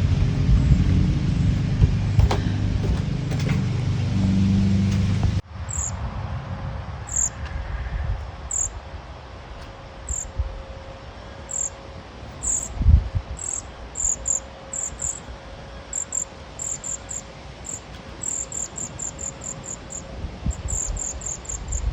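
A steady low rumble that cuts off abruptly about five seconds in. Then a run of short, high-pitched chirps, a few at a time at first and coming faster toward the end.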